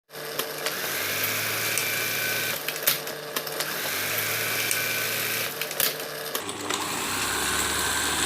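Brother LH4-B814 industrial buttonhole sewing machine running in two stretches of about two seconds each, with sharp mechanical clicks between them and a change in its running near the end.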